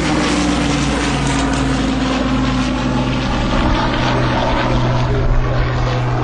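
Hawker Hurricane IV's Rolls-Royce Merlin V12 engine and propeller droning steadily in flight, the pitch drifting slightly lower over the first few seconds.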